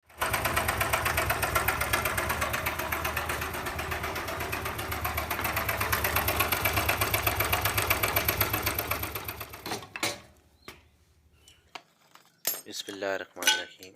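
Honda CD 70 single-cylinder engine running with a fast, even mechanical rattle, the noise of a worn timing chain whose rubber guide rollers have gone hard. It stops about ten seconds in, followed by a few clicks and a man starting to speak near the end.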